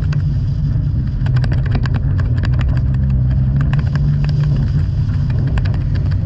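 Toyota 86's flat-four engine under load on a rallycross run, its note rising and falling with the throttle. Many sharp clicks and knocks run through it.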